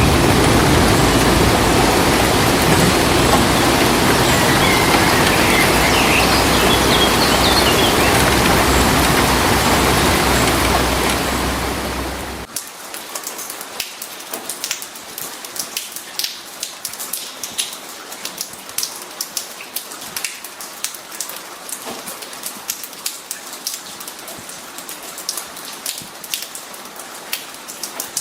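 Steady, loud heavy rain noise that cuts off suddenly about twelve seconds in. It gives way to a lighter patter of separate raindrops ticking on a surface.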